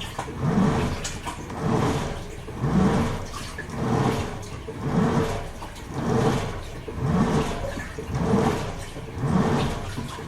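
Toshiba AW-42SEE4 fully automatic top-loading washing machine agitating: its pulsator churns the water in regular swishing surges about once a second, over a steady motor hum.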